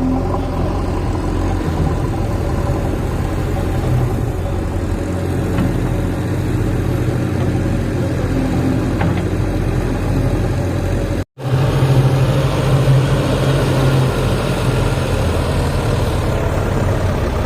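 Diesel engine of a JCB 3DX backhoe loader running steadily. It breaks off abruptly about eleven seconds in and comes back with a stronger low drone.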